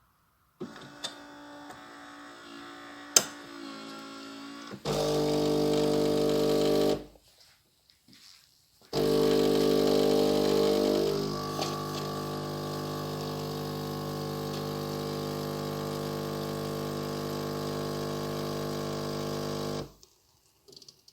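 Philips 5400 Series bean-to-cup espresso machine running through a drink cycle: a quieter motor hum with a couple of clicks, then a loud, steady pump buzz in two runs with a short break between. The buzz settles slightly quieter and cuts off suddenly near the end.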